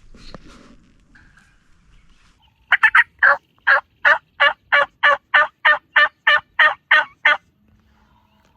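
Turkey yelping on a hunter's call: a loud series of about fifteen short, evenly spaced yelps, about three a second, opening with a few quicker notes, used to call in a gobbling tom.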